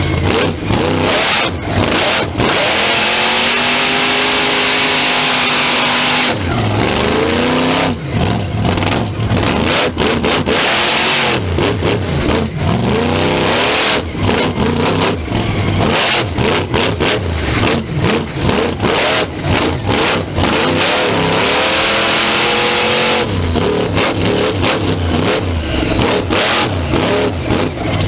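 Monster truck engine revving hard, its pitch climbing and falling again and again, with sharp crackles and bangs throughout.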